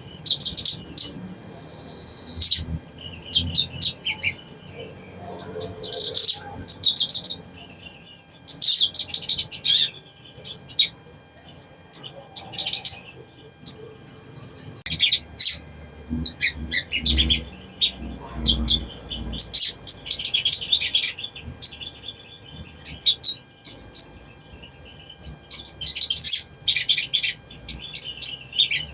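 Crimson sunbird (sogon) singing: rapid, high-pitched twittering chirps and trills in repeated bursts of a second or two, one after another.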